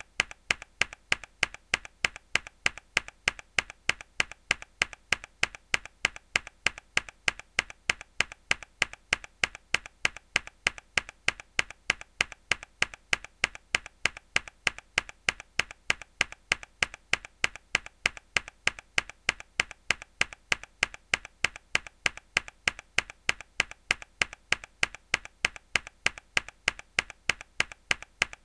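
A hard key press on a mechanical keyboard, repeated as a loop: sharp, clacky keystrokes in a steady, even rhythm of roughly three a second, each with a fainter second click.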